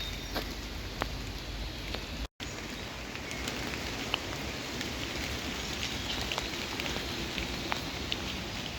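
Rain falling steadily, with scattered single drops ticking sharply. The sound cuts out completely for an instant a little over two seconds in.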